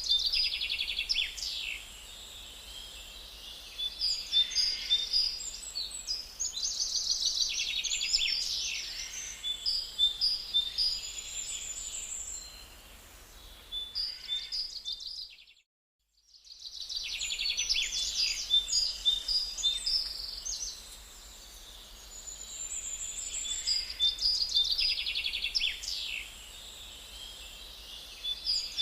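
Songbirds singing in a forest: repeated phrases of high chirps and quick trills, coming in bursts a few seconds apart. The sound cuts out completely for about a second midway, then the song resumes.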